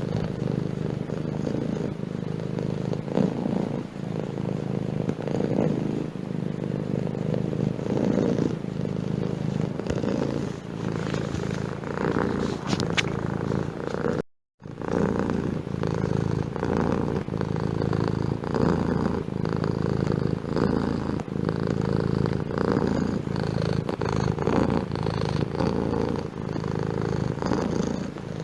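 Domestic cat purring steadily and close up, the purr swelling and fading in a regular rhythm with its breathing. It drops out for a moment about halfway through.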